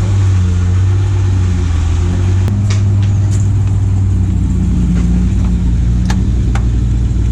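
Car engine running steadily, its low note shifting a little a few times, with a few sharp clicks over it.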